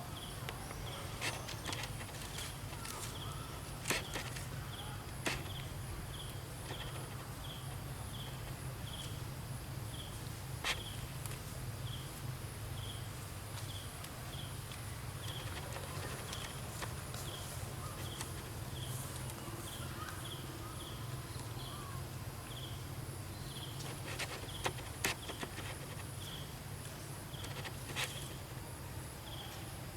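Outdoor ambience: an insect chirping steadily in a high, even rhythm about twice a second over a low steady hum, with a few scattered sharp clicks and taps.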